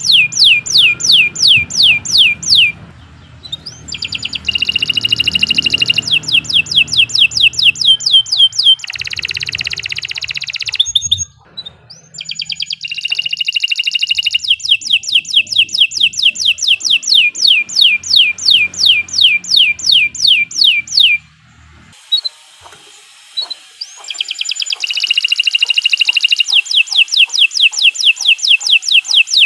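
Domestic canary singing a long, fast song: runs of quick downward-sweeping whistled notes, about four a second, broken by buzzy rolling trills and two short pauses.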